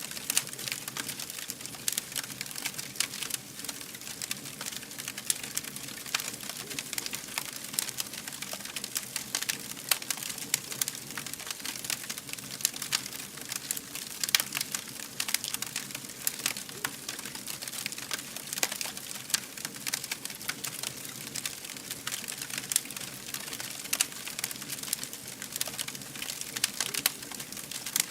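A fire burning and crackling, with frequent sharp, irregular pops and snaps over a soft steady hiss.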